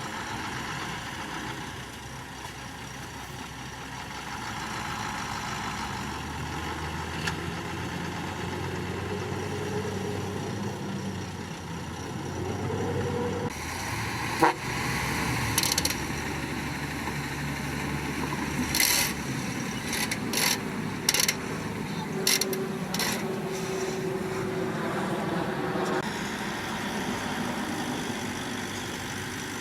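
Heavy diesel earthmoving machinery running steadily, the engine pitch rising around the middle. A sharp knock comes about halfway through, followed by several short, sharp noises over the next eight seconds.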